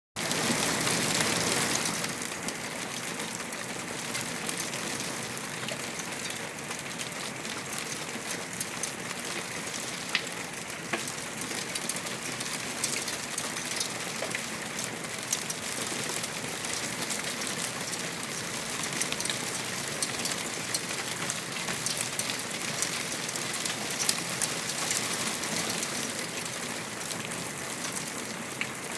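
Heavy rain falling in fat drops, a steady hiss of rain with many individual drops clicking sharply as they hit. It is loudest for the first couple of seconds, then settles to an even downpour.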